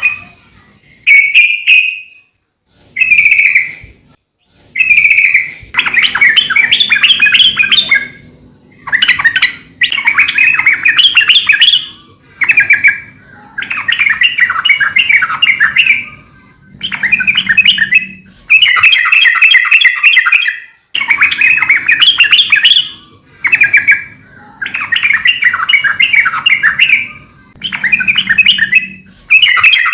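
Yellow-vented bulbul (trucukan) singing loud, bubbly warbling phrases one after another, each one to three seconds long with short pauses between them. The first few phrases are short and the later ones longer.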